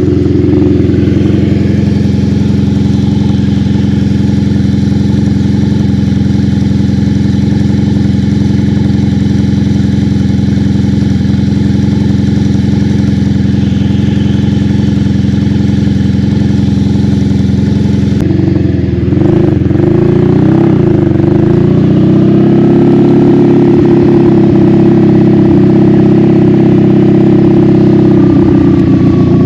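1986 Honda Magna V45's 750 cc V4 engine running steadily while riding. About two-thirds of the way through, the revs dip and rise again a few times, then settle into a steady, slightly louder note.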